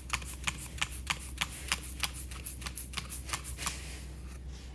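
Hand trigger spray bottle of degreaser being squeezed over and over, a quick run of short squirts about three a second that stops near the end.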